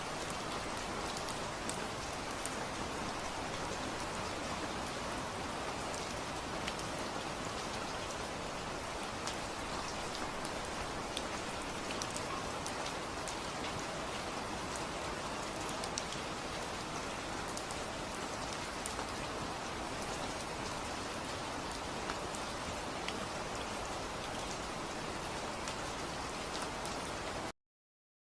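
Steady rain with individual drops ticking on a surface, which cuts off suddenly near the end.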